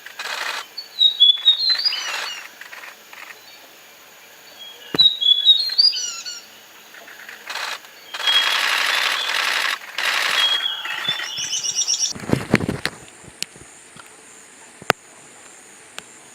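A bird calling in short runs of quick, high chirping notes, about a second in and again about five seconds in, then a longer harsh, hissing chatter. A low dull thump comes near the end.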